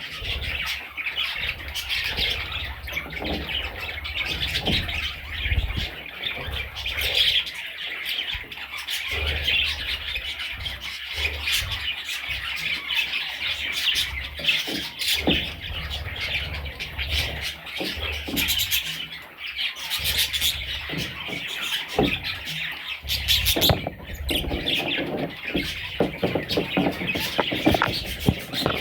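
Budgerigar chicks chirping and squawking in a continuous high chatter, with scattered soft thumps and rustling among them.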